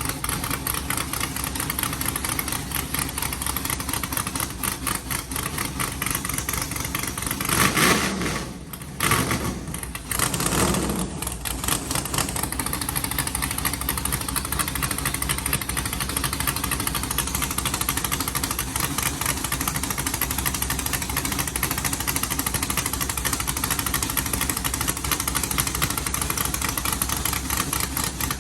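408-cubic-inch stroker V8 with a custom camshaft and open zoomie headers idling. Its throttle is blipped twice in quick succession about a third of the way through, with a brief dip between the two revs, before it settles back to a steady idle.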